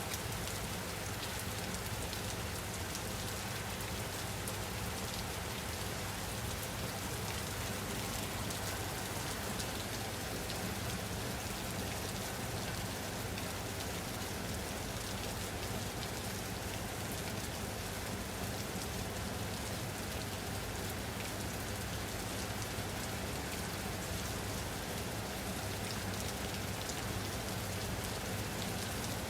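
Steady rain falling on a surface, a constant even hiss of many fine drops with no change in intensity.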